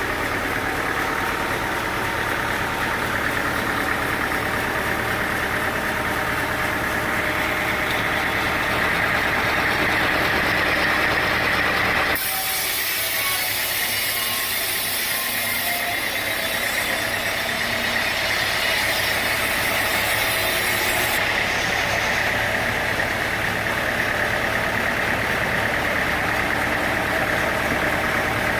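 Sawmill machinery running steadily with an engine-like drone. About twelve seconds in, the sound changes abruptly: the low rumble drops out and a brighter, hissing noise takes over.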